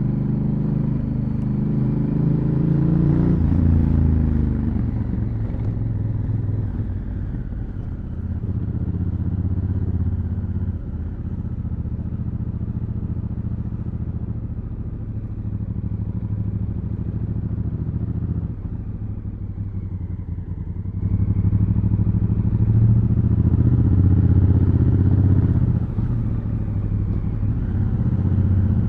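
Honda Africa Twin CRF1000L parallel-twin engine through its stock exhaust while riding. The revs climb in the first few seconds, then the bike cruises more quietly through the middle. It pulls harder and louder from about two-thirds of the way in, then eases off near the end.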